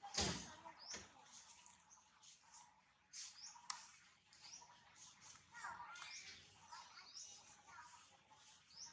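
Faint birdsong of many short rising chirps. There is a dull thump just after the start and a sharp click a little before halfway.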